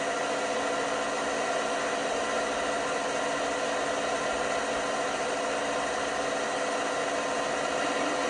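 LG washing machine running steadily, a constant whirring hum with several fine steady tones over a rushing noise.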